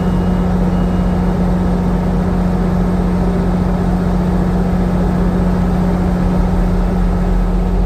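Diesel locomotives of a Northstar commuter train pulling in close by: a loud, steady engine drone over heavy rumble, which the railfan calls roaring. A faint high intermittent beeping sounds during the first second or so.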